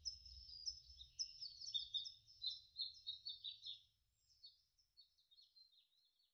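Birds chirping in a rapid string of short, high notes that grow fainter and die away near the end, over a faint low rumble that fades out before them.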